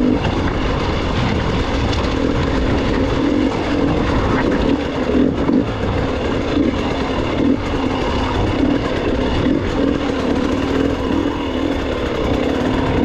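Gas Gas EX 300 two-stroke enduro motorcycle engine running under way at fairly even revs, with small rises and falls as the throttle is worked.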